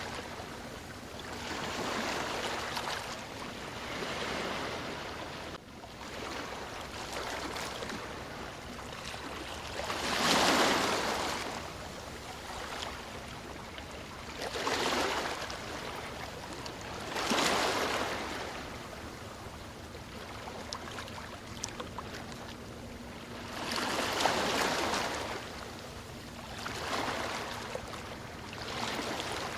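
Ocean surf: waves breaking and washing up a shore. They come in loud rushes every few seconds at uneven spacing, over a steady wash of water between them.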